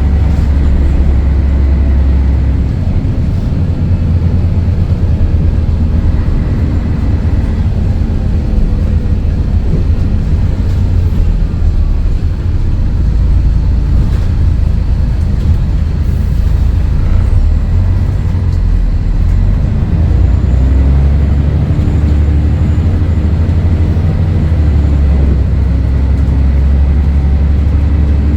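Scania DSC11 diesel engine of a Scania L113CRL bus running under way: a loud, steady low drone whose note shifts several times as the bus drives on.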